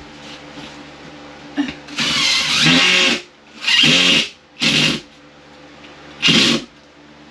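Power drill driving screws into a drywall panel: four short runs of the motor spinning up, the first and longest lasting about a second, with a short pause between each.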